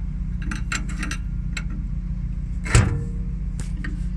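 Steel wrenches clicking and clinking on a hydraulic hose fitting as a reducer is snugged up: a run of small metallic clicks, one louder clank with a short ring about two-thirds of the way through, then a few more clicks. A steady low hum runs underneath.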